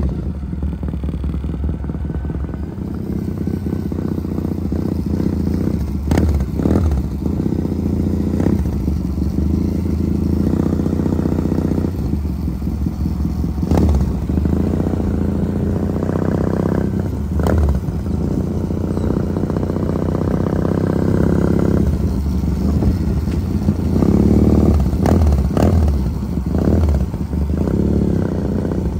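Triumph Thruxton 900 motorcycle's air-cooled parallel-twin engine running as it is ridden, its pitch rising and falling with the throttle, with several short sharp cracks along the way.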